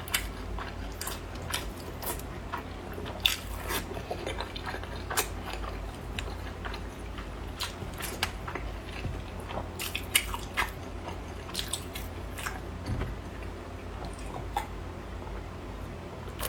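Close-miked eating sounds: a person biting and chewing food, with irregular wet clicks and small crunches.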